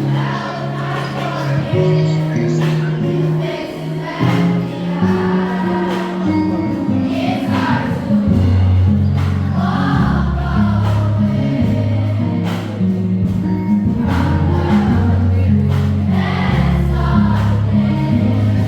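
A choir singing a gospel song over an instrumental backing, with bass notes stepping between pitches and a steady drum beat.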